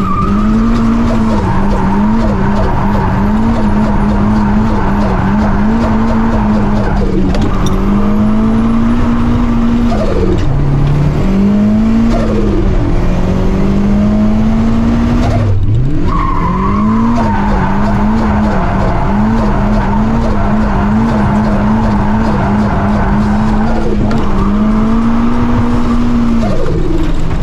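Mazda MX-5's four-cylinder engine held at high revs while drifting, heard from inside the cabin, the revs rising and dipping quickly over and over, with tyres squealing. About fifteen seconds in the revs drop sharply, then climb again and carry on the same way.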